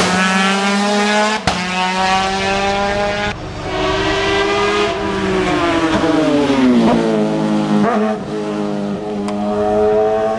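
Hill-climb racing car's engine at high revs, with sharp breaks at gear changes about one and a half and three and a half seconds in. Its pitch then falls away between about five and seven seconds in, with another break near eight seconds.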